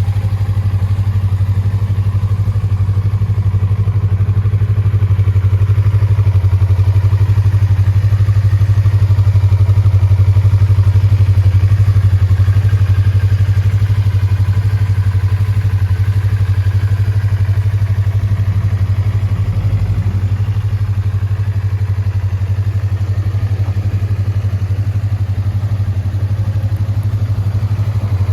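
2019 Yamaha YZF-R25's 249 cc parallel-twin engine idling steadily, with no revs.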